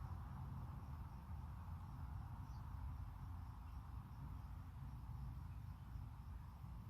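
Crickets chirping faintly at a steady, even pace over a low, constant rumble of outdoor ambience.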